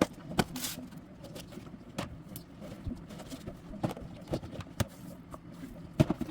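Irregular clicks and knocks of plastic food containers and a serving spoon being handled as homemade dog food is scooped into them, about eight sharp knocks spread unevenly.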